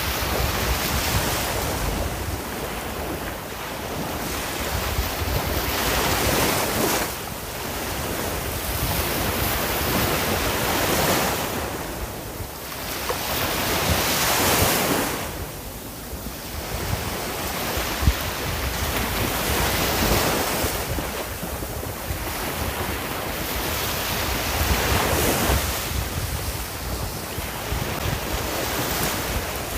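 Sea waves breaking and washing on a shore, the surf swelling and ebbing every few seconds, with wind noise on the microphone. A brief sharp click about eighteen seconds in.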